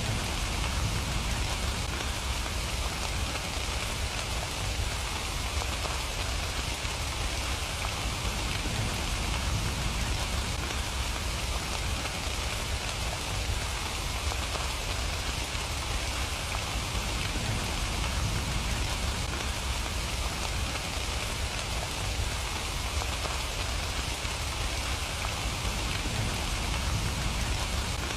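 Steady rain falling, an even hiss of drops hitting surfaces with a low rumble underneath, unchanging throughout.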